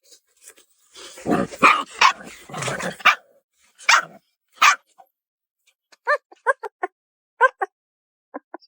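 Puppy yapping: short, high, sharp yaps in quick clusters of three or four, starting about six seconds in. Before them come a couple of seconds of rough, noisy sound and two short noisy bursts.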